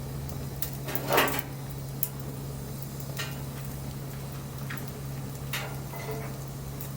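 Wood fire crackling, with scattered sharp pops and snaps over a soft hiss; the loudest pop comes about a second in.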